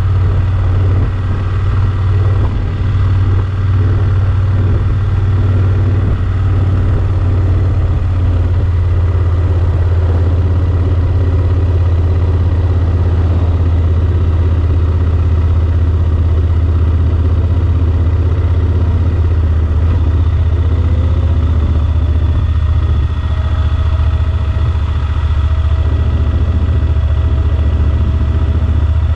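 Yamaha Super Ténéré XT1200's parallel-twin engine running steadily, with a tone that rises about twenty seconds in and then holds.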